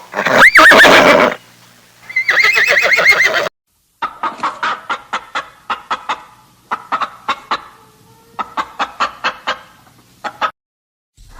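A horse whinnying twice, then after a cut a hen clucking in quick runs of short clucks, several a second, with pauses between the runs.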